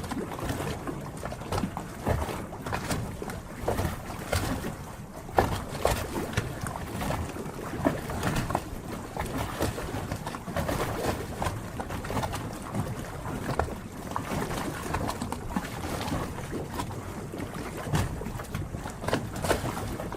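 Harbour water lapping and slapping, with frequent irregular small splashes and knocks over a steady wash.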